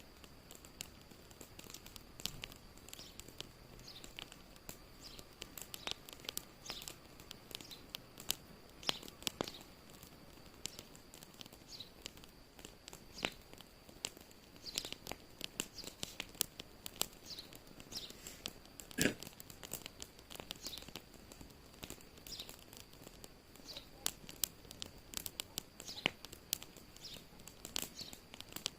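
Wood fire crackling in a fireplace: irregular sharp snaps and pops over a faint steady hiss, with one louder pop about nineteen seconds in.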